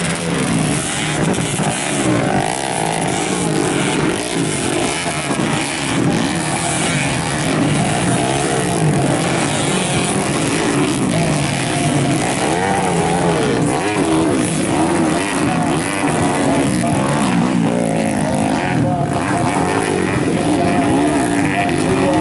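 Modified underbone (bebek) motorcycle engines running and being revved, their pitch rising and falling unevenly throughout, with more than one engine heard at once.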